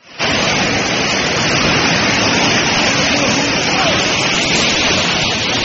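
Floodwater rushing in a swollen river: a loud, steady rush with no breaks, with faint voices underneath.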